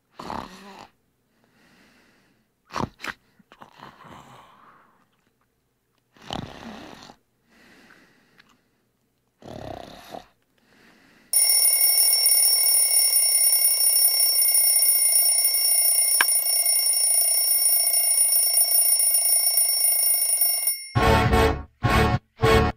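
A few short snores spaced a few seconds apart, then a loud, steady electronic ringing tone for about ten seconds that cuts off suddenly. The pop song then starts in short, stuttering stabs near the end.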